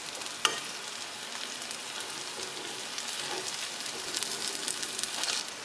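Onion-tomato masala sizzling in a kadai while a steel spoon stirs it, with a steady hiss and a few light clicks of the spoon against the pan, one about half a second in and several around four to five seconds in.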